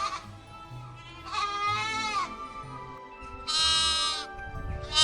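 Two drawn-out, wavering bleats from a sheep or goat, one near the middle and one near the end, over steady background music.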